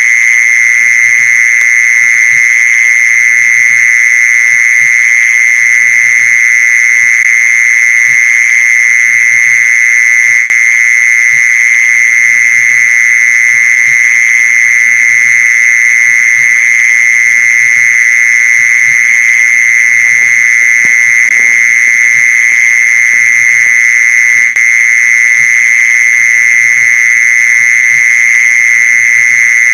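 Mole cricket song: a loud, unbroken, steady trill pitched near 2 kHz, holding at an even level throughout.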